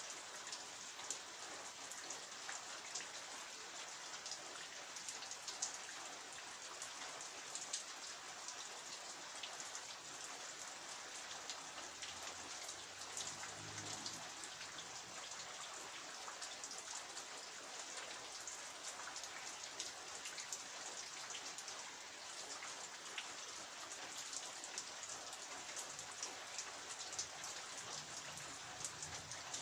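Steady rain falling, with many individual drops ticking on surfaces.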